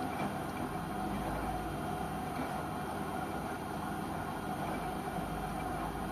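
LG washing machine running with a steady mechanical hum and a faint constant whine.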